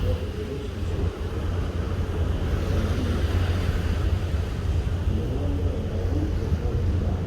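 Wind buffeting the microphone on a ship at sea: a steady low rumble with an even hiss above it.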